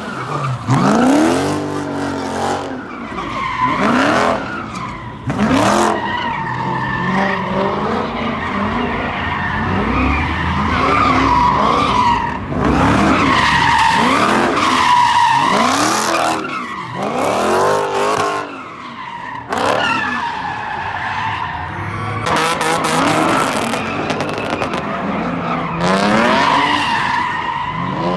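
Car tyres screeching over and over while an engine revs up and down, the squeal rising and falling in repeated arcs, as in donuts or burnouts at a street sideshow.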